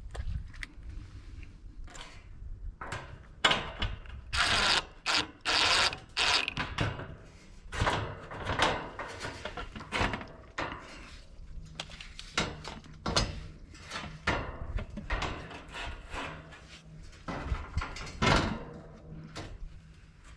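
Irregular knocks, clicks and scraping from hands handling parts and tools, louder scrapes about four to seven seconds in and again near the end.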